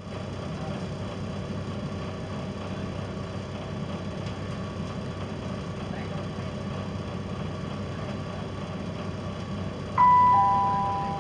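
Steady low hum inside a class 172 diesel multiple unit's carriage, with its underfloor diesel engine running. About ten seconds in, a two-note falling chime sounds and fades: the attention chime before an onboard automated announcement.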